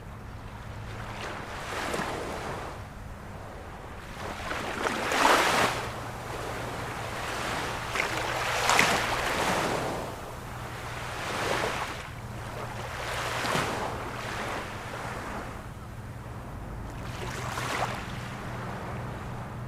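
Ocean waves breaking and washing in, one surge every two to four seconds, the loudest about five and nine seconds in, over a steady low hum.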